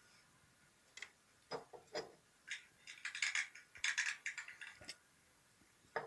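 Persian cat grooming itself: a run of licking clicks and rasping strokes of its tongue on its fur, sparse at first and quickest in the middle.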